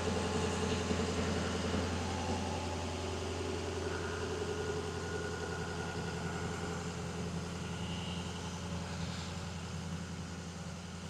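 Ford 6.0 Power Stroke V8 turbo-diesel engine idling steadily, with a low hum that eases off slightly toward the end; it is being run to purge air from the cooling system after a hand coolant refill.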